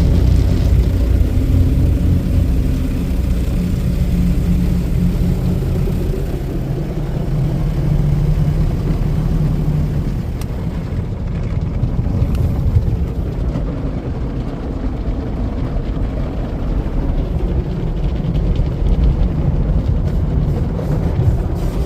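Automatic tunnel car wash machinery running around the car: a steady, loud low rumble with a humming drone that eases off about halfway through.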